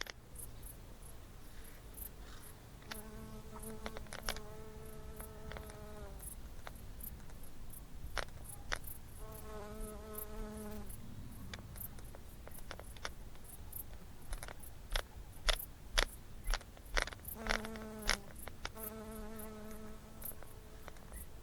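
A flying insect buzzing close by in four separate passes of one to three seconds each, the pitch dipping as each pass ends, with scattered sharp clicks in between.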